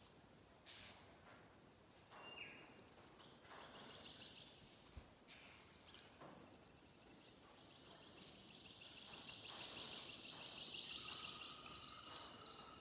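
Faint birdsong in the background, with scattered chirps and a long, rapid trilling song about eight seconds in that lasts some four seconds. Soft rustles and clicks of wire being twisted by hand are heard now and then.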